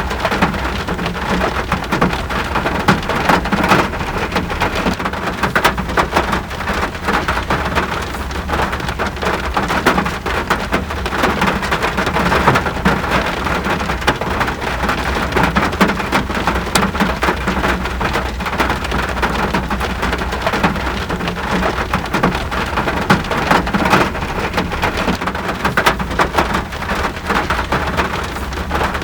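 Steady rain falling, a dense even hiss dotted with countless individual drop ticks on a surface.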